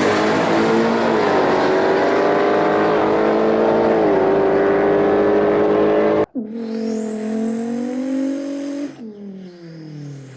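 Engine sound of an Acura NSX NC1. It holds steady, dips briefly in pitch about three and four seconds in, and cuts off abruptly about six seconds in. A quieter engine-like sound follows, rising and then falling in pitch.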